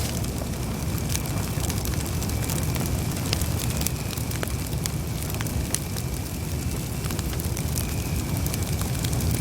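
Campfire burning, a steady low rush of flames with scattered sharp crackles and pops from the wood.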